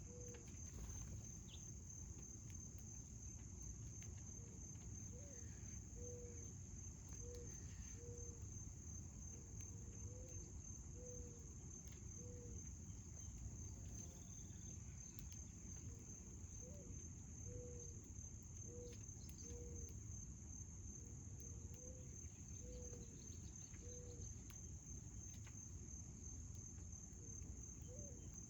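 Insects trilling in a steady, high, finely pulsed chorus, with short low notes repeating about once a second underneath.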